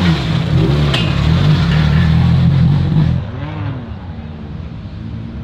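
Rally car engine idling with a steady, loud low drone, with a short click about a second in. About three seconds in it gives way to quieter outdoor background with distant voices.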